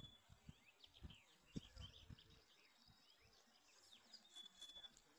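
Faint birdsong: many short chirps and whistles, over a few soft low thuds in the first couple of seconds.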